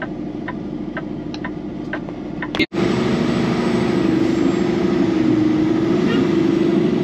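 Peterbilt 389 car-hauler truck engine idling with a regular ticking about twice a second, like a turn-signal flasher. About two and a half seconds in, the sound cuts to the truck driving, with louder, steady engine and road noise.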